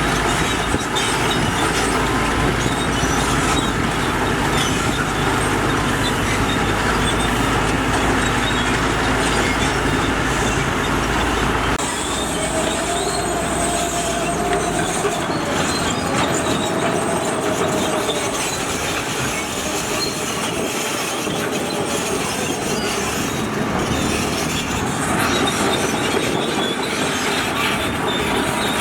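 Tracked heavy machinery working: a diesel engine running while steel crawler tracks clank and squeal. The deep rumble drops away abruptly about twelve seconds in, and a squeal follows for a few seconds.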